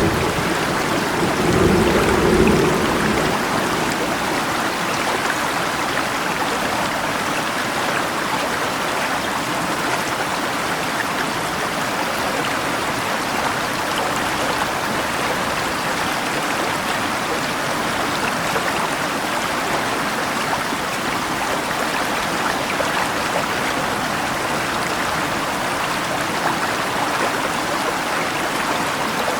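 Steady rush of a flowing river mixed with falling rain, with a low rumble of thunder in the first few seconds.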